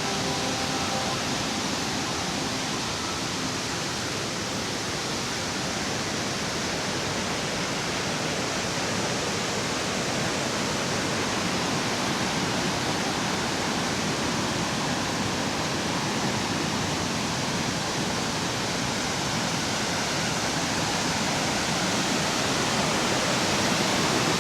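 Steady rushing roar of a large waterfall, growing slightly louder near the end.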